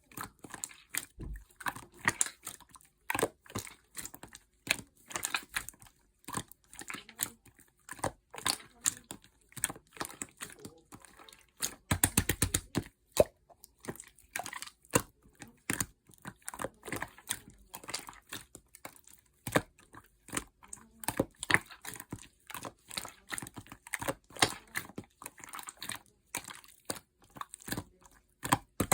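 Slime being squished and pressed by hand, giving irregular crackling and popping clicks, with a dense run of crackles about twelve seconds in.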